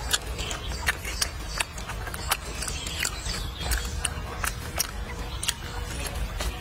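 Close-up eating sounds: a mouthful of meat and rice being chewed, with irregular wet mouth clicks and smacks, several a second, over a steady low rumble.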